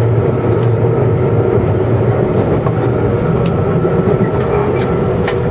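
JR East 107 series electric train running along the track, heard from inside the car: a steady running hum of motors and wheels on rail, with a few faint clicks.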